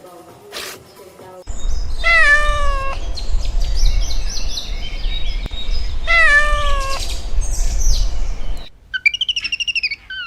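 An animal calling twice, each call about a second long and falling in pitch, over a steady low rumble, with high chirps between and after.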